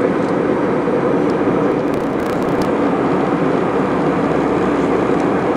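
Steady engine and airflow noise inside an airliner's passenger cabin in flight, with a few faint clicks about two seconds in.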